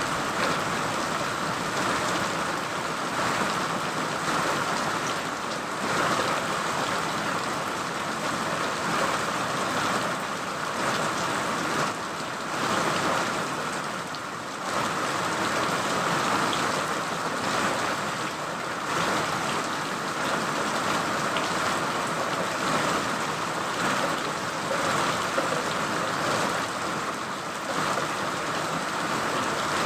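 Steady rain falling on a surface, a dense even hiss with individual drops pattering through it, swelling and easing slightly every few seconds.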